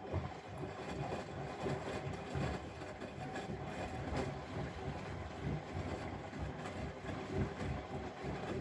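Bosch Maxx WFL 248Y front-loading washing machine running, its drum turning with uneven low thuds from the load.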